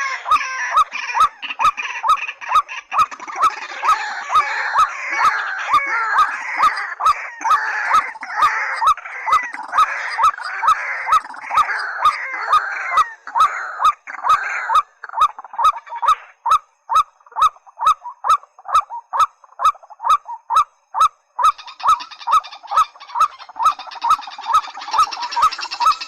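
White-breasted waterhen and watercock calls: a loud note repeated about twice a second under a dense chattering chorus of calls. The chorus drops away about halfway through, leaving the repeated note alone. A rougher, higher call joins near the end.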